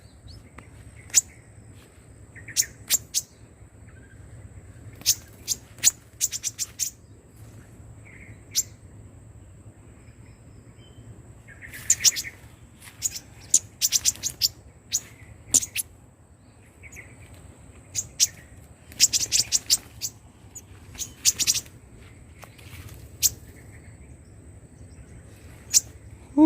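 Small songbirds chirping: quick clusters of short, sharp, very high calls with softer chirps between, over a faint steady high-pitched whine.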